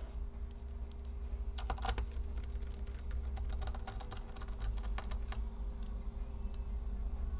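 A quick run of light, sharp clicks and taps from small laptop parts being handled and fitted during reassembly, starting about a second and a half in and thinning out after about five seconds. A steady low hum runs underneath.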